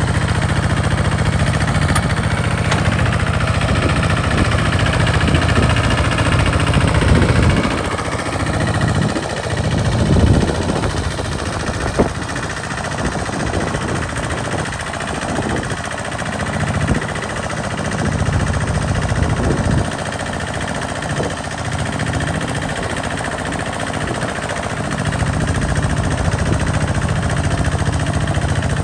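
A farm tractor's engine running steadily while it works a field. For a long stretch in the middle the low engine note becomes rougher and uneven, then it settles back to a steady run near the end.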